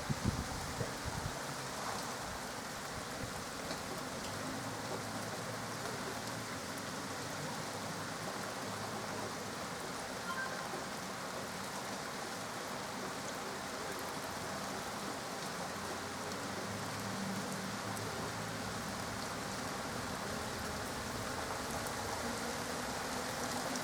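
Steady rain falling during a thunderstorm, with a few low knocks in the first second or so.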